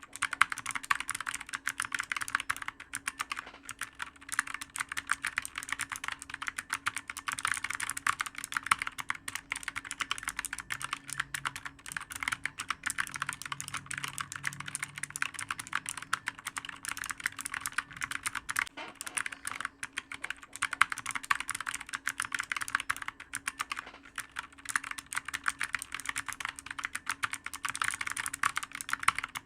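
Computer keyboard being typed on rapidly and without pause, a dense stream of sharp key clicks over a faint steady hum.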